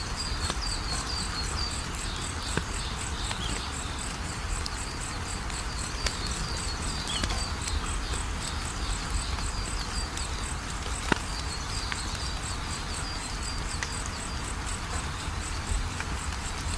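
Wood fire crackling with scattered sharp pops, the loudest about eleven seconds in, over a steady low rumble. Insects chirp throughout in a fast, even, high-pitched pulse.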